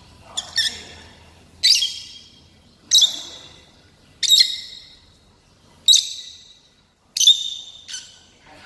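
A pet lovebird calling: a series of loud, shrill squawking calls, about one every second and a bit, the first a quick double.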